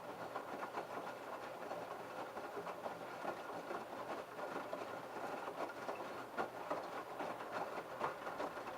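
LG F1222TD direct-drive washing machine's drum turning during the prewash, tumbling the wet load with a dense splashing patter.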